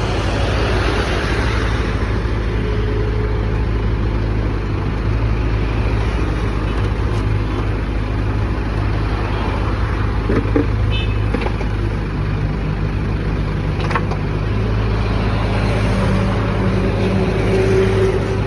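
Heavy vehicle's engine running steadily with a low, even hum, and a few faint clicks partway through.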